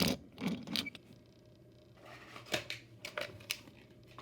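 Die-cast model car's hard plastic wheels rolled and clattering across a hard surface, a series of sharp clicks and rattles in two spells. The plastic wheels give a harder, clickier sound than rubber tyres.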